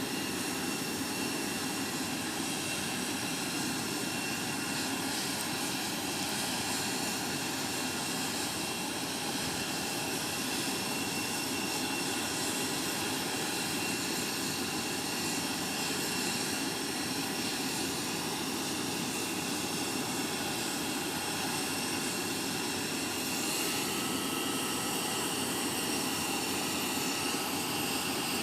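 Jet aircraft engines running steadily: a constant rush with thin, high, even-pitched whining tones over it.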